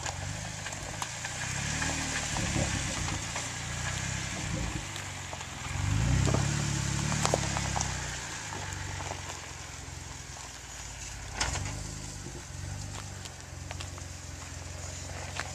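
Jeep engine running at low revs on a rocky trail, swelling louder for a couple of seconds around the middle as it takes more throttle, with a few sharp clicks over it.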